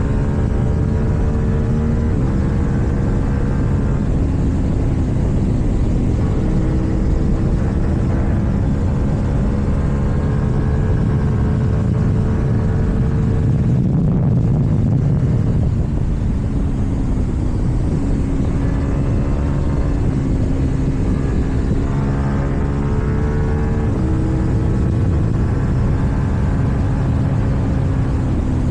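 KTM Duke 790's parallel-twin engine running under way through an Akrapovič exhaust. Its pitch climbs and drops in steps as it is ridden through the gears.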